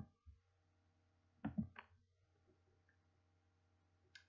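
Near silence: room tone with a steady low hum, broken by two brief sounds about a second and a half in and a short click near the end.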